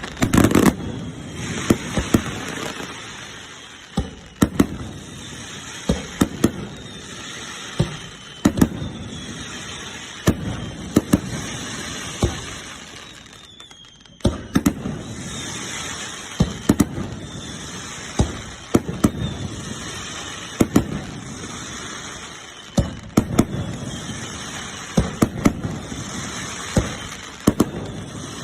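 Aerial fireworks shells bursting in rapid succession from close range, sharp bangs coming every second or so with crackling between them. The barrage eases briefly about halfway through, then picks up again.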